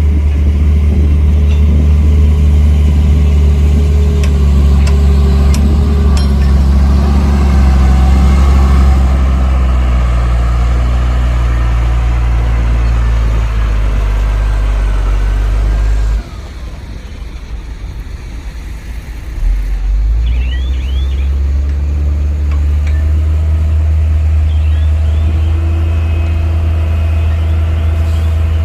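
Heavy diesel construction machinery running with a deep, steady engine drone. The drone drops off abruptly about sixteen seconds in and picks up again a few seconds later.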